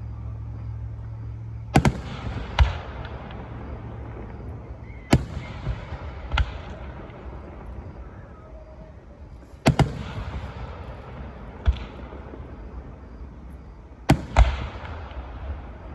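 Fireworks going off: about eight sharp bangs every one to four seconds, some in quick pairs, each trailing off into a rolling echo.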